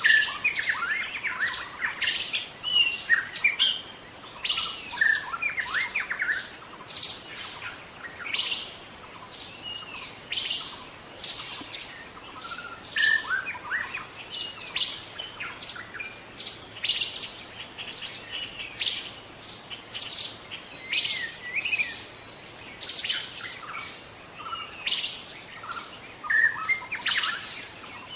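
White-rumped shama singing a long, unbroken run of varied short whistled and chattering notes with quick rising and falling glides; this is the wild shama's song, used to lure other shamas.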